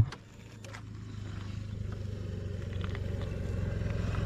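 KTM RC single-cylinder engine running with its silencer removed (open exhaust), a steady low pulsing hum. It drops sharply at the start, then slowly grows louder. A few faint handling clicks come in the first second.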